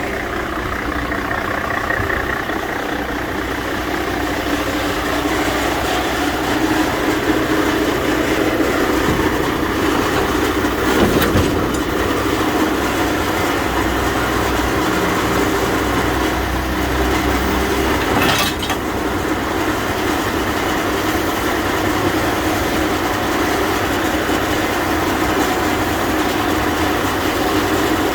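Mercedes-Benz Actros 1831 4x4 truck's engine running steadily, with two short sharp knocks partway through.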